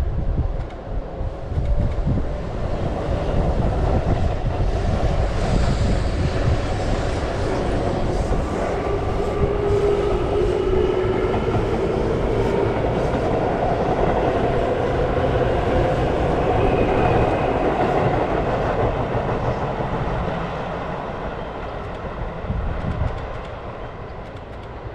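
Electric commuter train running through the station, wheels clattering over rail joints, with a whining tone rising out of the rumble in the middle and the sound easing off near the end.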